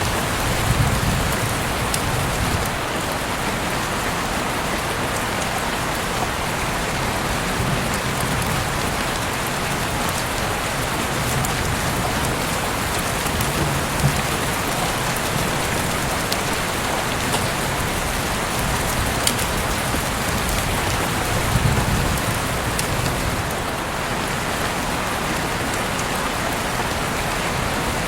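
Heavy rain falling steadily, a dense even hiss with scattered sharp drop ticks and a few brief low rumbles.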